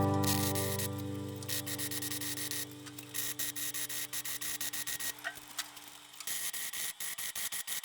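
Crackling, hissing bursts of MIG welding on sheet metal, each lasting a second or two with short pauses between, while a fiddle tune fades out underneath.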